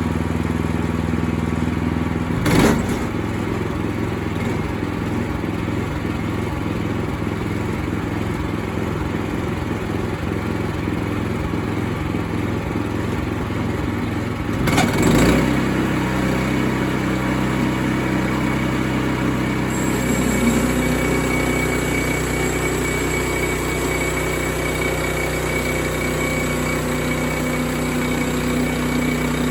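Sawmill engine running steadily. Its pitch shifts about halfway through and again a few seconds later, with a short loud burst of noise at about two and a half seconds and another around fifteen seconds.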